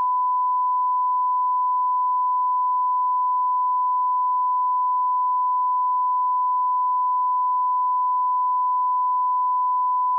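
Steady 1 kHz sine-wave test tone at −18 dB, an audio line-up reference tone held unbroken at one pitch and level.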